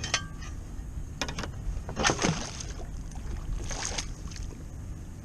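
Water slapping against the hull of a small fishing boat in several short splashes, over a steady low rumble.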